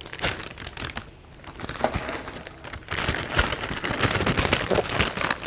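Dry cereal and its crinkly plastic packaging rustling and crackling, quiet at first and busier from about halfway through.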